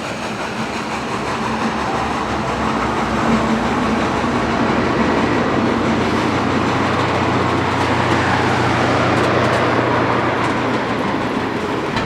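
A train rolling past on the rails, a steady rumble with low tones underneath that grows louder through the first half and eases a little near the end.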